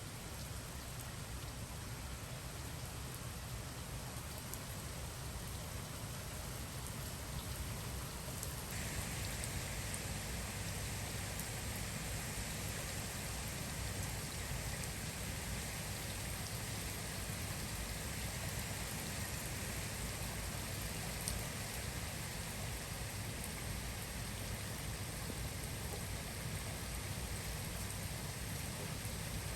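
Heavy typhoon rain falling steadily, turning louder and hissier about nine seconds in.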